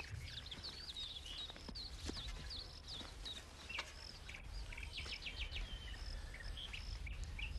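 Small birds chirping and singing, with many quick short calls, over a low steady rumble.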